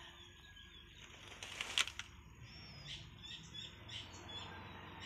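A brief rustle about a second and a half in, then small birds chirping in a run of short, high calls, two or three a second.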